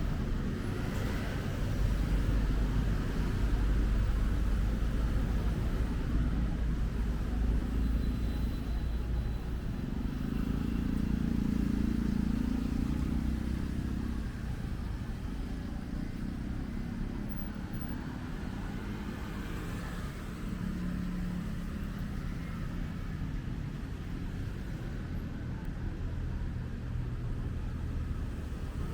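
Street traffic: motor vehicles passing with a low engine and tyre rumble, heaviest in the first half and easing off after about fourteen seconds.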